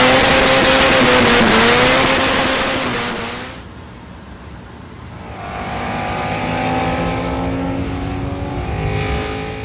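Big-turbo Nissan Maxima's engine running hard at a steady high pitch, with a loud rushing noise over it. About three and a half seconds in it drops off sharply, then builds back up to a steady engine note from about five seconds in.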